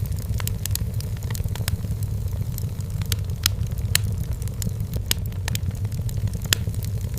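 Firewood burning in a fireplace, crackling with irregular sharp pops over a steady low rumble.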